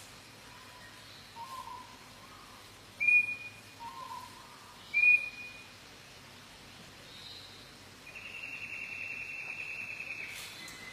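A bird calling: soft low notes, then two loud, short, high whistled notes about two seconds apart, and a longer high call lasting about two seconds near the end.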